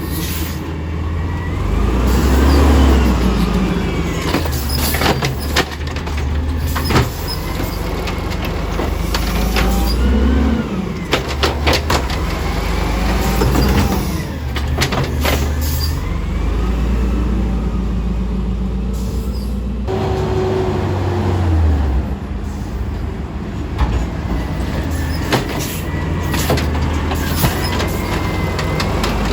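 Small automated side-loader garbage truck working a collection: the engine revs up and down several times while the hydraulic arm lifts and dumps carts, with sharp clunks and bangs of the carts and scattered knocks.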